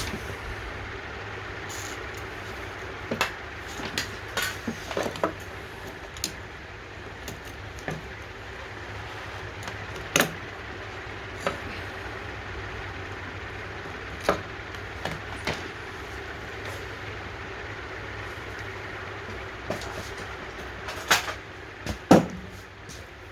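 Scattered clicks and knocks of hand tools and small parts being handled while the carburetor is taken off a Honda HRX217 mower's GCV190 engine, over a steady low hum. The loudest knocks come about halfway through and again near the end.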